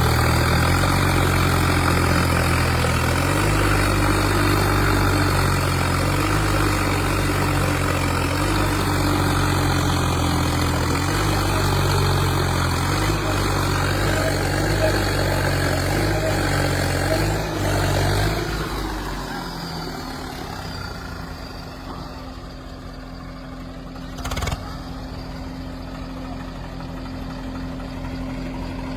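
Heavy vehicle's diesel engine running steadily and loudly. About two-thirds of the way through it eases off to a quieter, steady hum. A single sharp knock comes near the end.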